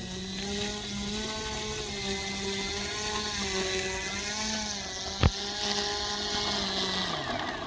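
Electric RC airplane's motor and propeller, a steady whine with a slightly wavering pitch as the model flies; near the end the pitch falls and the sound fades. A single sharp click about five seconds in.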